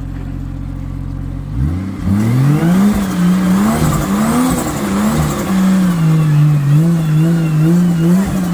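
Four-wheel drive's engine, a Ford Barra straight-six in a Nissan Patrol GU, idling, then revving up about one and a half seconds in and held at revs that rise and dip as the truck is bumped up over a rock step.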